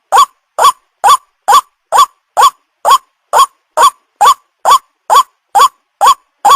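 White-breasted waterhen (ruak-ruak) call: a short rising note repeated evenly about twice a second, every call alike, as a looped lure recording for young waterhens.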